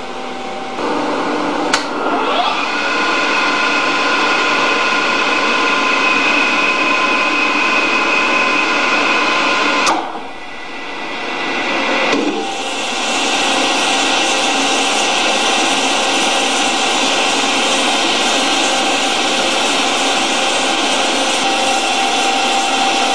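Hardinge CNC lathe running, its spindle and drive motors giving a steady whine over a mechanical hum. About ten seconds in the machine slows and quiets briefly, then spins back up with a rising whine and runs steadily again.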